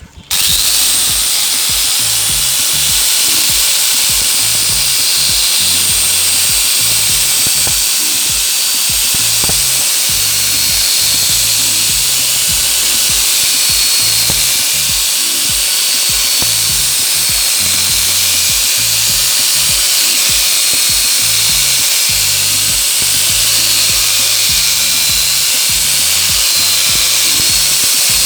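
Electric angle grinder fitted with a chainsaw-head attachment running at speed and cross-cutting a very hard wood log, a loud steady high whine that starts suddenly and holds on.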